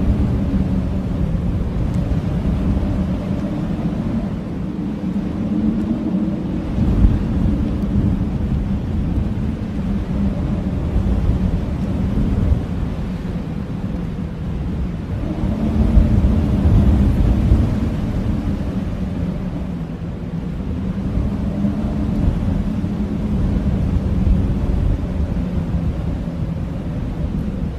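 Blizzard wind howling: a deep rumbling noise with a moaning tone that rises and falls, swelling into a stronger gust about sixteen seconds in.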